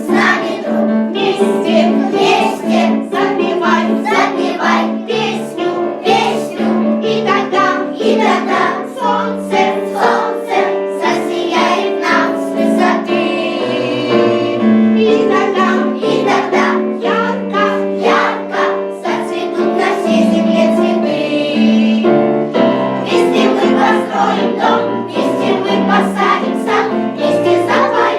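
Children's choir singing a song over a backing track with a steady beat.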